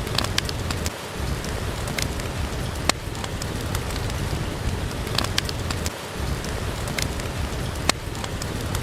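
Steady rain, with a low rumble under it and sharp pops of a wood fire crackling every second or two.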